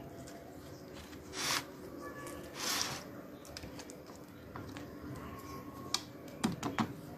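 Kitchen handling sounds while sauce is applied to a wrap: two short hissing bursts, then a few sharp clicks and taps near the end, over a faint steady hum.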